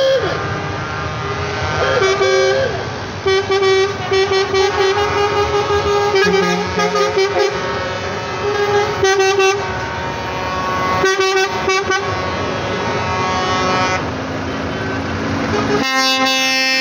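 Truck horns honking in short, rapidly repeated toots over the steady running of truck engines.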